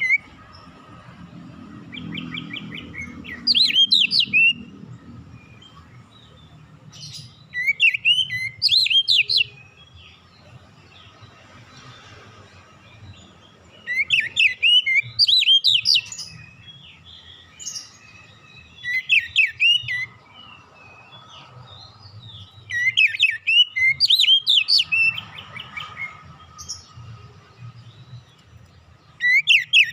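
Oriental magpie-robin (kacer) singing as a lure song. It gives short bursts of fast, varied whistled phrases every four to five seconds, over a faint low hum.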